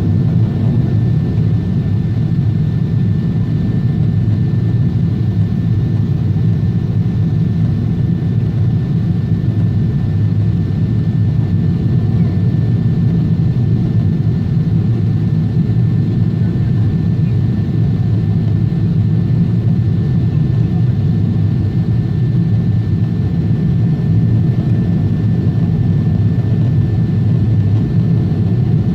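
Steady in-flight noise of a Boeing 777 heard from inside the cabin: an even low rumble of engines and airflow, with a faint steady whine high above it.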